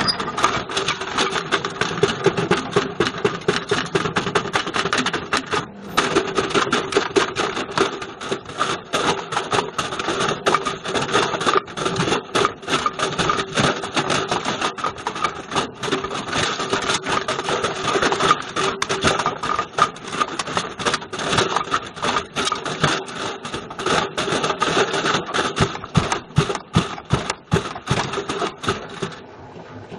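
Beko washing machine drum turning with a Bush VCR807 video recorder tumbling inside: loud, constant irregular clattering and knocking over the machine's steady running hum, easing briefly near the end.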